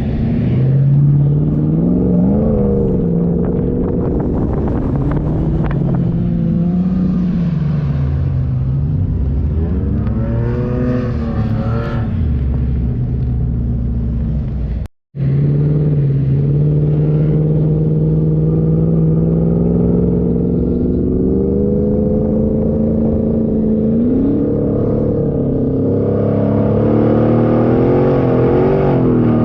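Off-road 4x4 engine driving, its pitch repeatedly rising and falling as the revs go up and down. The sound cuts out for a moment about halfway through.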